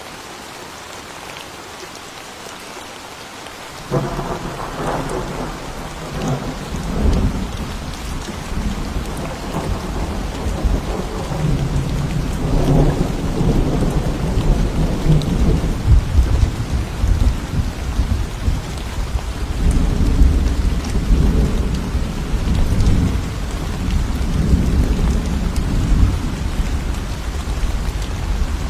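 Thunderstorm: steady rain, then about four seconds in a sudden clap of thunder that rolls on as a long, deep rumble with swells, over the continuing rain.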